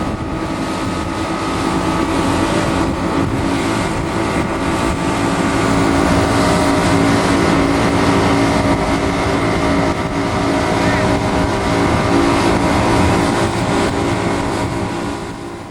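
Motorboat engine running steadily under way, a constant hum over rushing wind and water noise.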